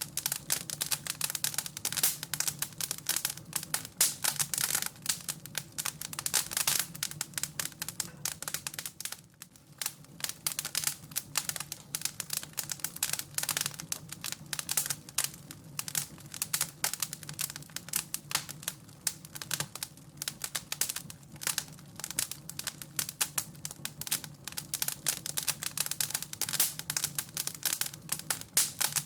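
Wood fire crackling in a fireplace: a dense, irregular run of small pops and snaps over a low steady hum, easing briefly about nine seconds in.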